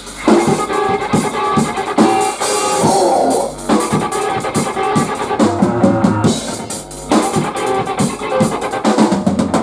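Live post-hardcore band playing: electric guitars, bass and a drum kit, with the full band coming in sharply right at the start.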